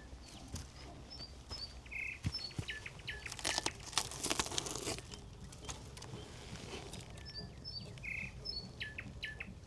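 Small birds chirping outdoors, short high calls repeated on and off, with a few crunching sounds about halfway through.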